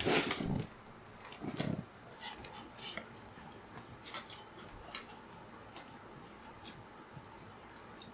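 Scattered sharp clinks of utensils against dishes, a few seconds apart, after two short rustling noises in the first two seconds.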